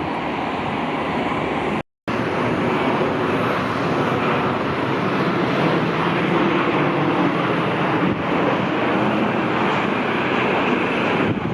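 Jet airliner engines running, a loud steady rush of noise with a faint hum and whine in it, broken by a brief total dropout about two seconds in.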